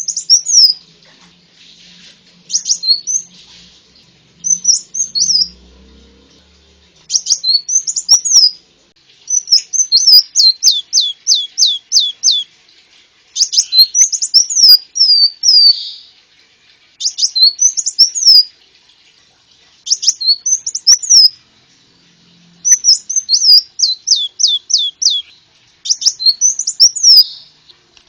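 Konin, a small sunbird, singing in repeated short bursts of high, sweeping chirps, some phrases running into a fast trill, with brief pauses between bursts.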